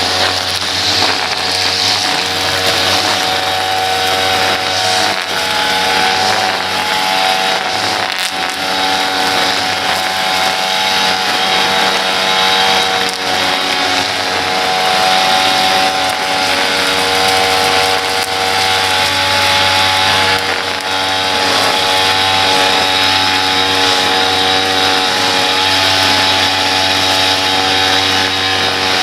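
Small petrol engine of a lawn-care machine running steadily at a constant speed.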